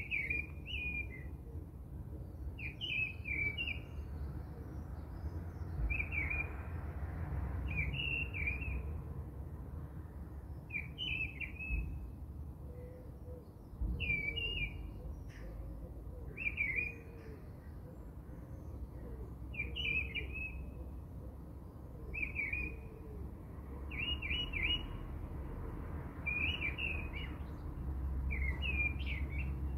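A bird chirping: short, quick chirp phrases repeated every second or two, over a low steady rumble.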